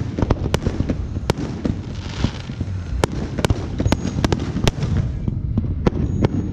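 Fireworks going off: many sharp bangs and cracks at irregular intervals, several a second, over a continuous low rumble of further bursts. There is a brief hiss about two seconds in.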